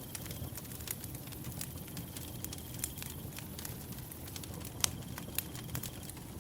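Wood fire burning, with scattered sharp crackles and pops over a low steady rush of the flames; the loudest pop comes a little under five seconds in. A faint high cricket trill comes and goes behind it.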